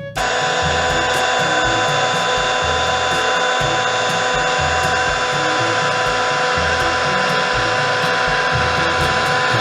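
Loud steady mechanical noise with several steady tones, starting suddenly, over background music with a low repeating bass line.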